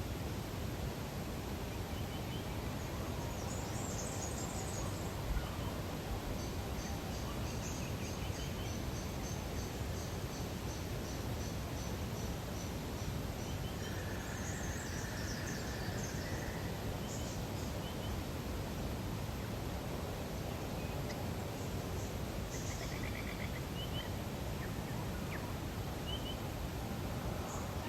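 Lakeside nature ambience: a steady background noise with faint birds calling over it, including a run of quick high chirps about a quarter of the way in and a longer, lower call near the middle.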